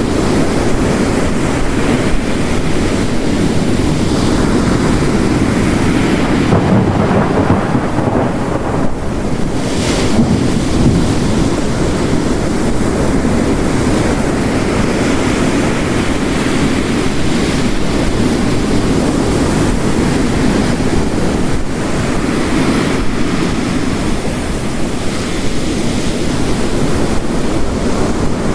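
Dense storm ambience of ocean waves crashing on a rocky coast layered with heavy rain, a steady rushing roar that swells and eases. There is one brief sharp crackle about ten seconds in.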